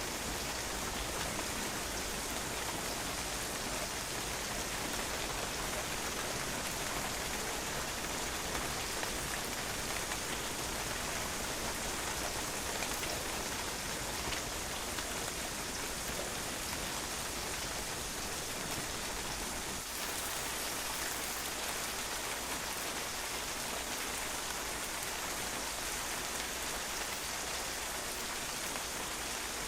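Steady rain falling and spattering on a patio, an even hiss of drops with scattered individual drop hits.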